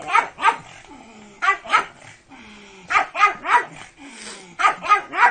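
A dog barking repeatedly in quick clusters of two or three barks, about ten barks in all.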